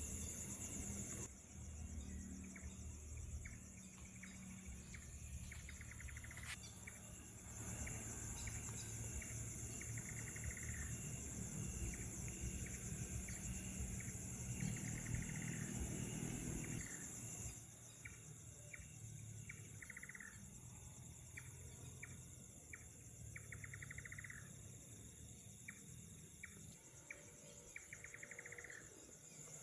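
Night insects trilling: a high, fast-pulsing chorus that cuts out about a second in, resumes, and cuts out again about halfway through. Short chirps and brief trills recur throughout, over a low steady hum.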